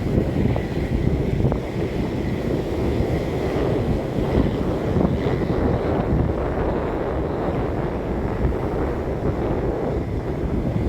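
Strong wind buffeting the microphone in gusts, with ocean surf underneath.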